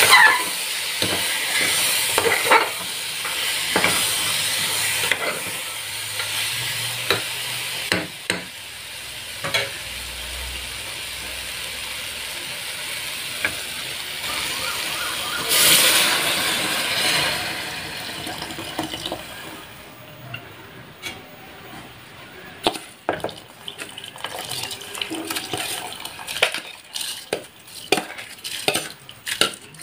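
Soya chunk and vegetable masala sizzling in an aluminium pressure cooker while a steel spoon stirs and scrapes the pot. About halfway through there is a louder burst of hissing as water goes into the hot pan, and then the sizzle dies away. Near the end come many sharp clicks and clinks against the pot.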